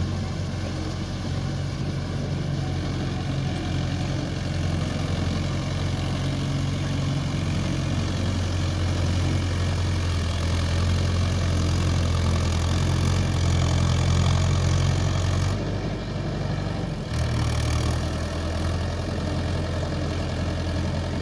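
Tractor engine running steadily while driving a rotavator through the soil. The engine note dips and shifts briefly about three-quarters of the way through, then settles again.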